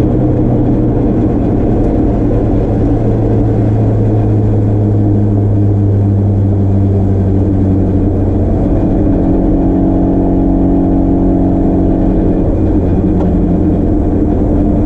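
Drift car's turbocharged SR20DET four-cylinder engine running hard on track, heard from inside the car. The engine note is steady, and its pitch shifts about nine seconds in.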